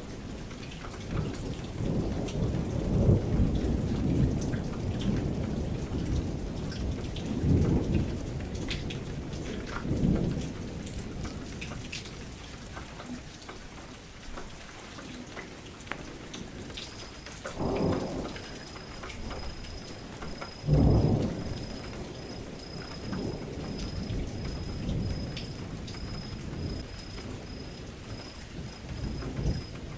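Steady rain with rolling thunder: low rumbles come and go throughout, with the strongest claps about halfway through and again a few seconds later.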